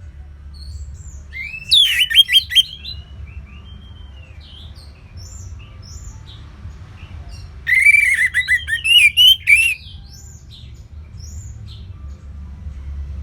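Songbirds singing: two loud bursts of rapid, varied song, about two seconds in and about eight seconds in, with faint scattered whistles and chirps in between over a low steady background rumble.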